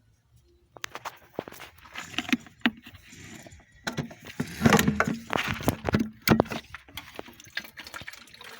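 Irregular clicks, clinks and knocks of hands and tools working at a car's radiator, busiest around the middle.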